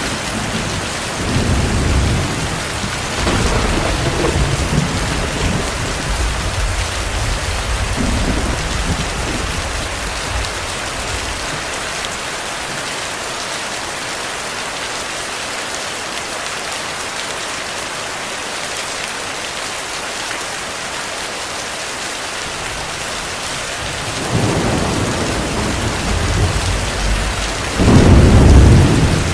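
Heavy rain falling steadily, with thunder rumbling through the first ten seconds or so before it dies away. Another roll of thunder builds about two-thirds of the way in and grows to a loud peak near the end.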